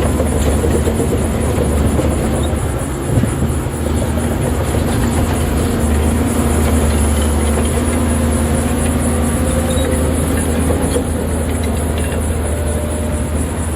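Heavy diesel earth-moving machine running steadily, a bulldozer or excavator engine with a low drone, and one short knock about three seconds in.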